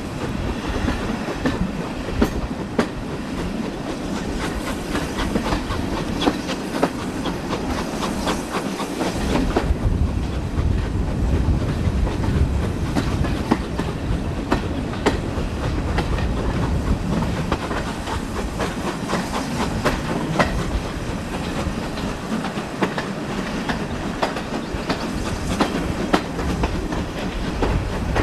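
Steam-hauled passenger train running, its carriage wheels clicking over the rail joints over a steady rumble, heard from alongside the carriages. The rumble grows deeper about ten seconds in.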